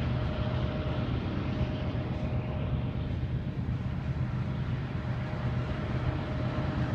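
Steady low rumble of a vehicle, even throughout, with a faint thin whine held over it.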